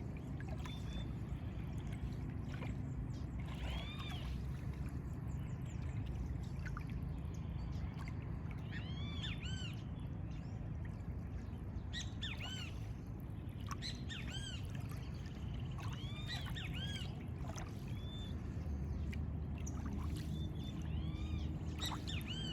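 Birds calling: many short, arched calls with overtones, repeated in irregular clusters, over a steady low background rumble.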